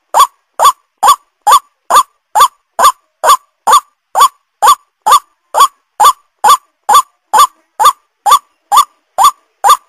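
White-breasted waterhen (ruak-ruak) calling over and over, a short upward-sliding note repeated evenly about twice a second, about 22 times in a row.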